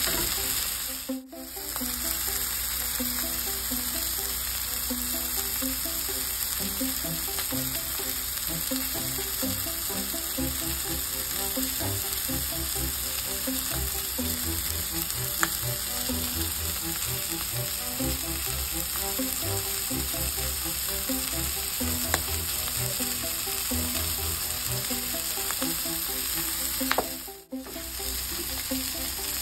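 Butter and sourdough pancake batter sizzling on a hot stovetop griddle: a steady frying hiss that cuts out briefly twice, about a second in and near the end. Quiet background music plays underneath.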